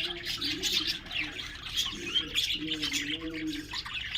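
Flock of caged lovebirds chirping continuously in high, rapid twitters. A lower wavering call sounds beneath them for about a second, roughly two-thirds of the way in.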